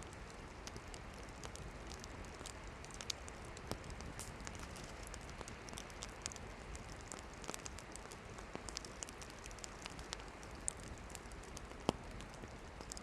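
Campfire of burning firewood crackling over a steady hiss of flames, with frequent small pops and a few louder snaps.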